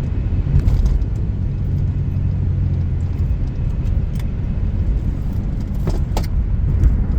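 Steady low rumble of a car heard from inside the cabin, with a couple of light clicks about six seconds in.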